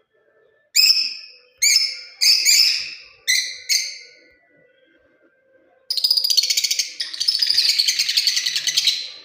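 Lovebird calling: about six sharp, shrill chirps in the first four seconds, then after a short pause a continuous rapid chattering.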